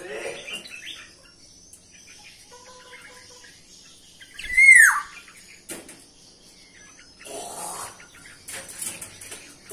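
Aviary birds chirping and calling, with a short steady whistled note a little before halfway and one loud downward-sliding call about halfway through.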